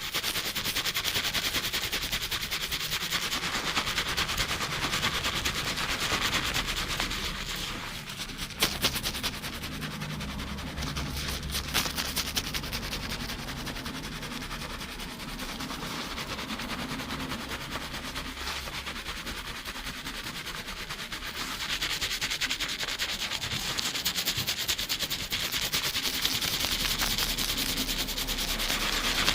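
Fast shampooing: fingertips scrubbing a lathered scalp and hair, a dense rapid crackle and scratch of suds. It eases off to a softer rubbing about 8 s in and picks up strongly again after about 22 s.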